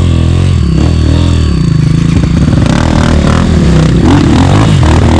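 Off-road motorcycle engine running under changing throttle, its pitch rising and falling as the revs go up and down. Some clattering knocks come in over the second half.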